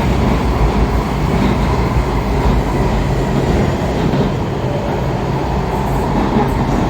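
Interior running noise of a Kawasaki 7000 Series Washington Metrorail car at speed: a steady rumble of wheels on rail and traction motors, without squeal or distinct clicks.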